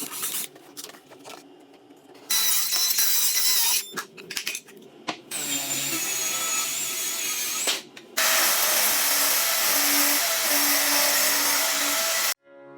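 An electric power tool running against wood in three bursts, the last one about four seconds long, with a steady motor whine in each. Short knocks and handling noises come between the bursts.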